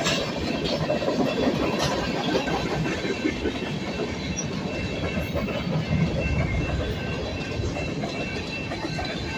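CSX freight train rolling past, a steady rumble with the wheels clicking over rail joints now and then.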